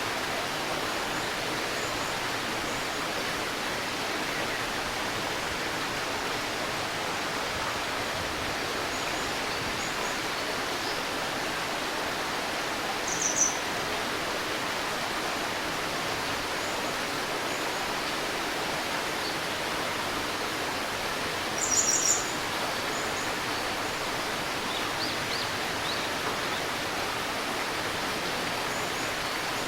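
A stream babbling steadily. A bird gives short high chirps, loudest twice, about 13 seconds in and about 22 seconds in, with fainter chirps here and there.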